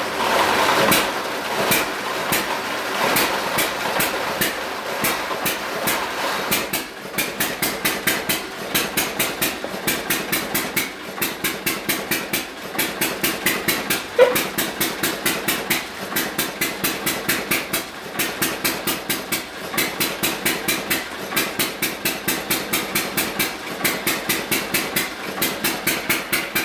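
1924 John Deere E-series hit-and-miss engine running under electrical load on a dyno, beating out a steady rapid rhythm of firing strokes and valve-gear knocks. The sound is denser for the first several seconds, then settles into evenly spaced beats.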